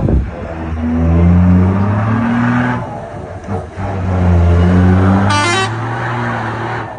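Ford Cargo truck's diesel engine running loudly through a valved performance exhaust, revved up twice with the pitch rising each time. A short high-pitched toot sounds about five seconds in.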